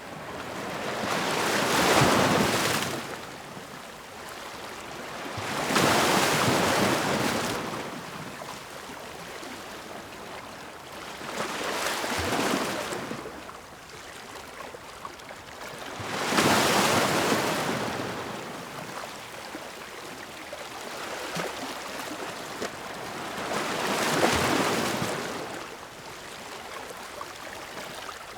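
Ocean waves breaking and washing up the shore, one surge swelling and fading every four to six seconds, six in all, over a steady hiss of surf.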